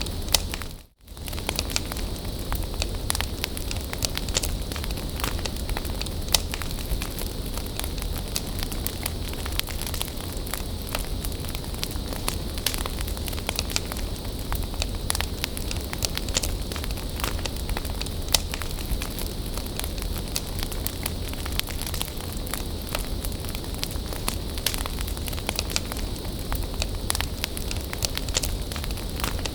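Wood bonfire burning: a steady hiss with frequent sharp crackles and pops. The sound drops out briefly about a second in, then comes back.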